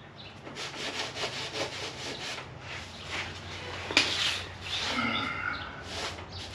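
Repeated rough scraping and rubbing on the Range Rover Classic's grimy body metal around the wheel well, with a sharp knock about four seconds in and a brief squeak shortly after.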